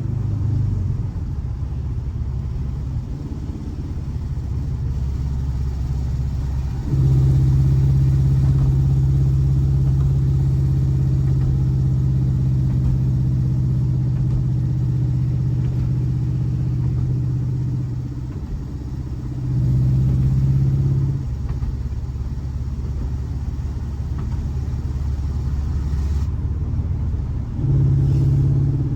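Air-cooled 1584 cc flat-four boxer engine of a VW Fusca (Beetle) running. About seven seconds in the revs are raised and held steady for some ten seconds, then drop back. The engine is briefly raised again twice, around twenty seconds in and near the end.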